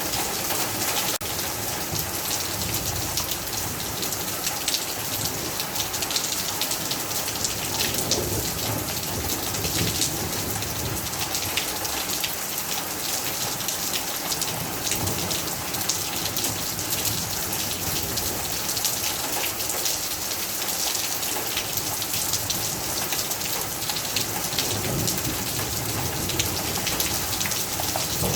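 Heavy rain falling steadily, a dense patter of many drops hitting surfaces.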